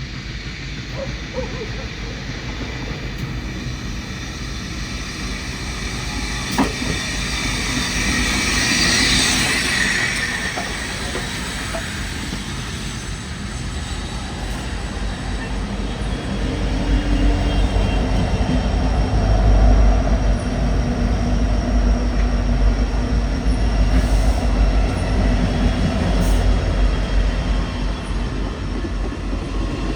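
A train locomotive rumbling past, its heavy low rumble growing louder about halfway through. There is a brief rushing hiss about nine seconds in.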